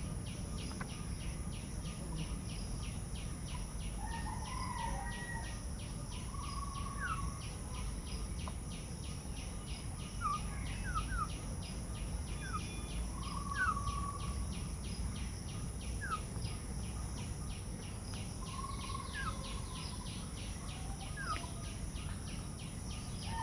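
Outdoor ambience: a rapid, even pulsing trill like an insect's, with about ten scattered short rising bird chirps and a low steady rumble underneath.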